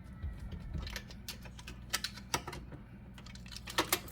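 Scattered light clicks and knocks of hands and tools working at a built-in dishwasher's metal fittings, with a few sharper knocks about two seconds in and near the end.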